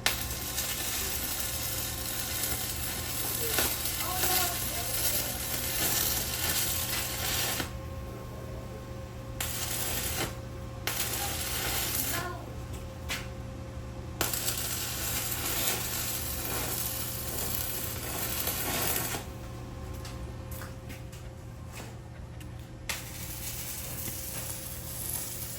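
Electric arc welding: the arc crackles and sizzles steadily, breaking off several times for a second or so as the weld stops and restarts. A steady low hum continues underneath.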